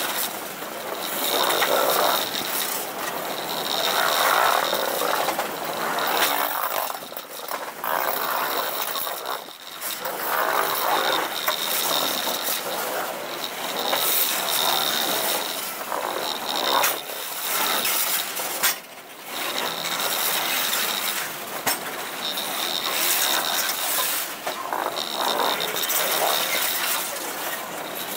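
Loaded grain hopper cars of a freight train rolling past close by: steel wheels running on the rails with a continuous rattling clatter, and a high thin tone that comes and goes.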